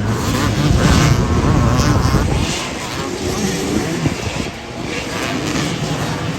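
A motor vehicle engine, most likely a motorcycle's, running loudly with its pitch wavering. It is strongest for about the first two and a half seconds, then drops back under general street noise.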